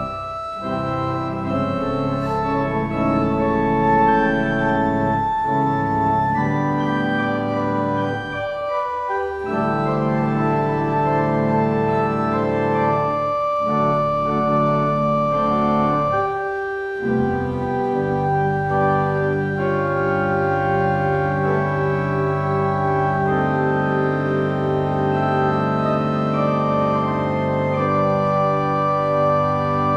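Organ playing slow, sustained chords that change every few seconds, with brief breaks between phrases.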